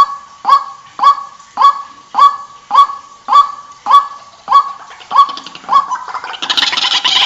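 White-breasted waterhen calling: a steady run of single harsh notes, nearly two a second. About six seconds in these break into a dense jumble of overlapping calls.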